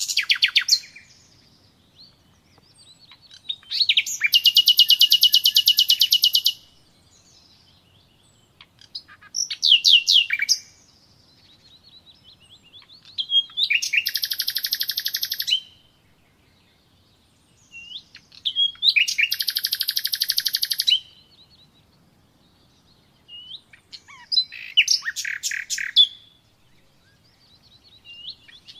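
A songbird singing phrases of rapid, high trills, each about two to three seconds long, repeated every four to five seconds with short quiet pauses between them.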